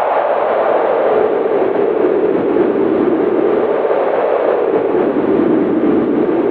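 Howling winter wind: a steady rushing noise whose hollow pitch sinks a little in the first second, then wavers low.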